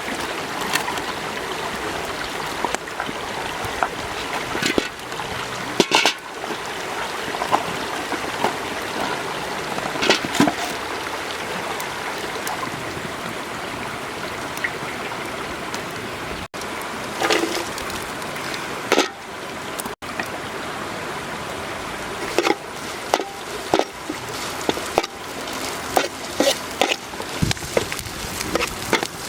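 Steady running water, like a stream, with scattered short splashes and knocks, more frequent near the end.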